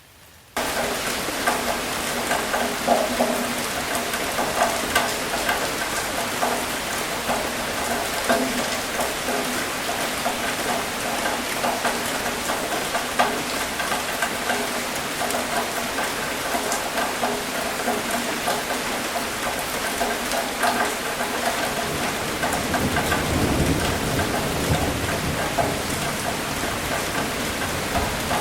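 Steady rain falling on a hard surface, with many separate drops ticking and pattering, starting abruptly about half a second in. Near the end a low rumble of distant thunder swells and fades.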